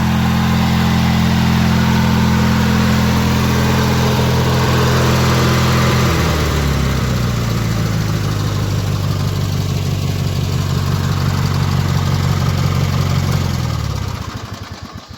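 Montgomery Ward lawn tractor's engine running steadily, dropping to a slower idle about six seconds in, then winding down and shutting off near the end.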